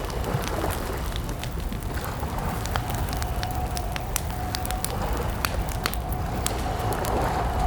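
Campfire crackling: irregular sharp pops and snaps of burning wood over a low, steady rumble of flames. A thin, steady tone joins underneath a few seconds in.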